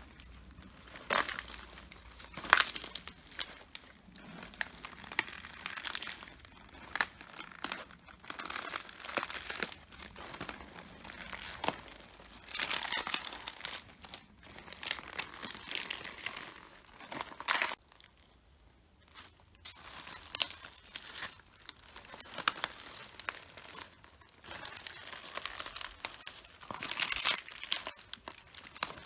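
Red cabbage leaves crunching, crackling and tearing underfoot in irregular clusters as they are stepped on and crushed, with a brief pause about two-thirds of the way through.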